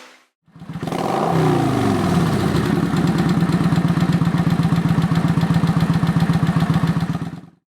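Motorcycle engine running: the revs drop and settle over the first couple of seconds, then it idles with an even, rapid pulse before the sound cuts off abruptly near the end.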